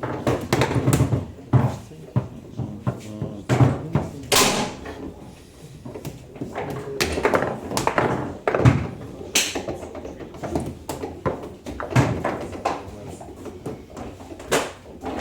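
Table football (foosball) in play: irregular sharp knocks and clacks of the ball being struck by the figures and hitting the table walls, with the rods banging against their bumpers.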